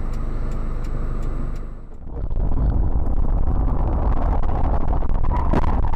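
Car driving, with steady road and engine noise picked up by a dashcam and a regular faint ticking. About two seconds in the sound cuts to a louder, deeper rumble of road noise.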